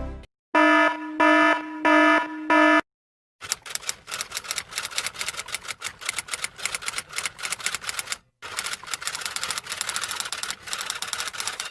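Four short electronic beeps, evenly spaced, then a long run of rapid typewriter-like key clicks with a brief pause partway through.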